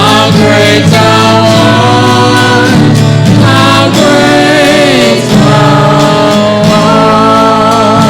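Hymn sung by voices with instrumental accompaniment, long held notes with vibrato over a steady bass.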